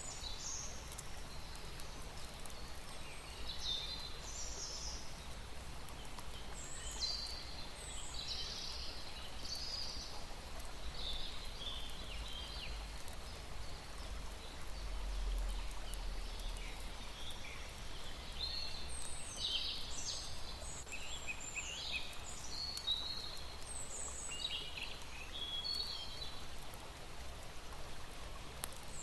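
Small birds chirping in short, high twittering bursts that come in clusters, over a low steady rumble.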